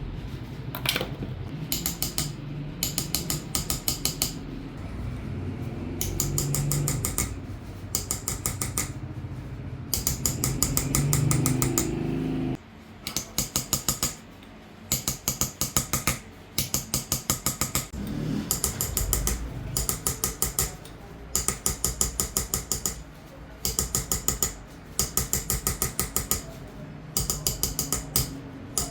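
Hand-engraving (qalamzani) on silver: a small hammer tapping a graving chisel into the metal in quick runs of light metallic taps, about ten a second, each run lasting a second or so with short pauses between.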